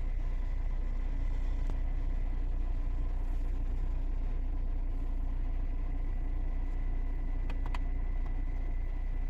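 Hyundai i20's 1.5-litre four-cylinder diesel engine idling steadily, heard from inside the cabin as a low, even rumble. A few faint clicks come near the end.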